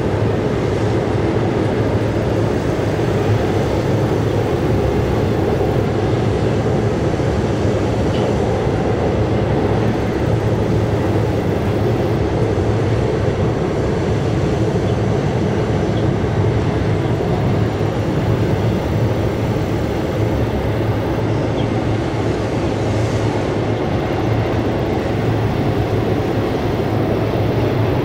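Double-stack container freight train rolling across a steel trestle bridge: a steady noise of the wheels and cars on the rails, unchanging throughout.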